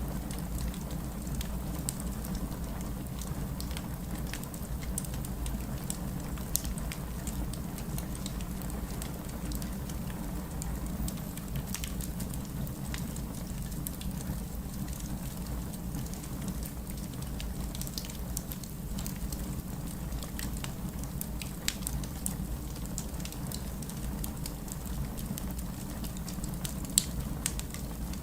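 Wood campfire burning, with a steady low rush of flame and scattered crackles and pops from the burning logs; a few sharper pops stand out, one near the end.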